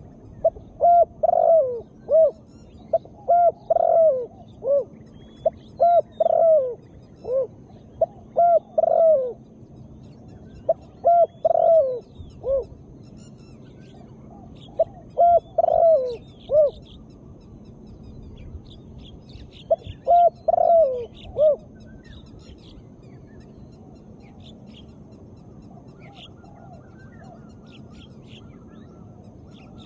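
Female spotted dove cooing in short repeated phrases of several coos each, with a long pause in the last third. Faint chirps of small birds sound in the background.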